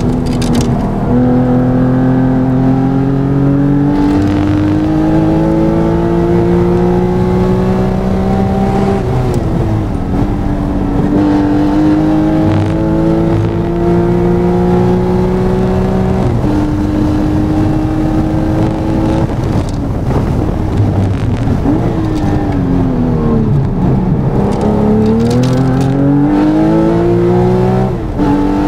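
Air-cooled Porsche 993 flat-six, remastered by Gunther Werks to 430 hp, heard from inside the car at racing speed. The engine note rises as it pulls through the gears, dropping at upshifts about a third and halfway through, then holds steady. It falls away under braking and downshifts, climbs hard again, and steps down once more near the end.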